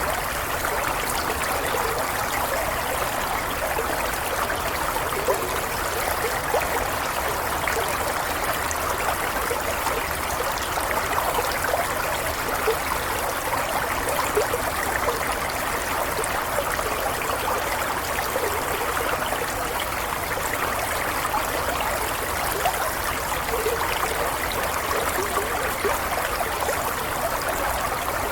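Running water of a small stream, a steady babbling flow with little splashes and no change in its rate.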